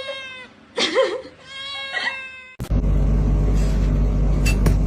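A cat meowing: a few drawn-out calls, some held steady and one bending in pitch. About two and a half seconds in they cut off abruptly, and a steady low rumble with a few sharp clicks takes over.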